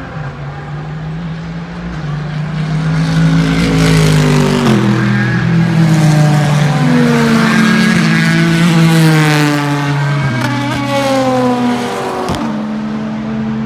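Race car engines and exhausts passing by at an endurance race, several at once, swelling loud through the middle and then fading. Their pitch steps down and glides as the cars shift gears, and there is a sharp click about twelve seconds in.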